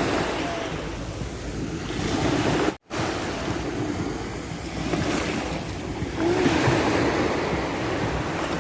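Ocean waves and surf washing in steadily, with wind buffeting the microphone. The sound cuts out for a split second about three seconds in.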